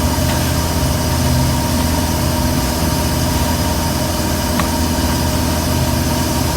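Boat engine running steadily with a continuous low hum, over an even wash of water and wind noise.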